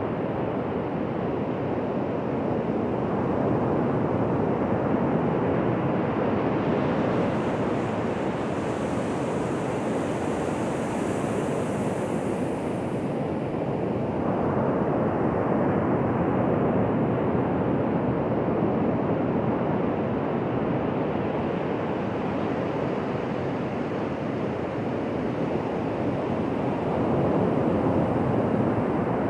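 Ocean surf washing onto a beach: a continuous rushing of waves that swells gently every ten seconds or so, with a faint higher hiss in the middle.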